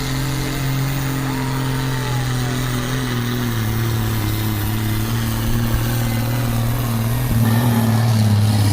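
Pulling vehicle's engine running steadily and loud at a truck and tractor pull, its pitch stepping down slightly about three and a half seconds in and the sound growing a little louder near the end.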